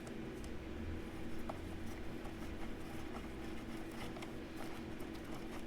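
Faint, scattered light clicks and taps of small metal hardware being fitted by hand: socket-head screws, a washer and a spacer going onto a portable bandsaw's blade guide bearings. A steady low hum runs under them.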